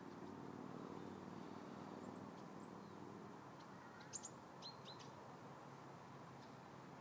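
Faint bird chirps over a quiet, low background hush: a thin high call about two seconds in, then a few short, sharp chirps falling in pitch around four to five seconds in.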